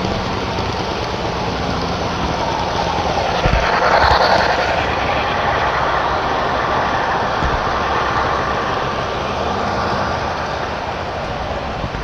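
HO scale model trains running on the layout: a steady rolling rumble of wheels on track, swelling for a moment about four seconds in, with a few low knocks.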